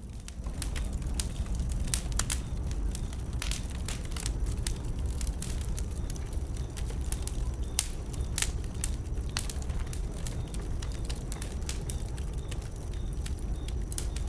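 Wood bonfire crackling, with frequent sharp, irregular pops and snaps over a steady low rumble.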